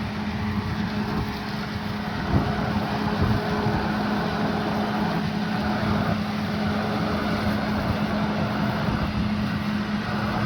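Fire engine running steadily at the fire scene: a constant engine drone with a steady hum over a noisy background.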